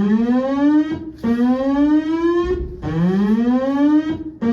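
Search and rescue call-out alarm sounding a repeated rising whoop, about one every second and a half. It signals that the crew is being scrambled for a rescue mission.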